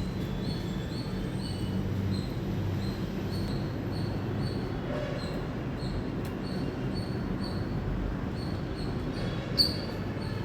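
Indian palm squirrel chirping: a steady series of short, high chirps, about two a second, with one louder chirp near the end, over a low steady background rumble.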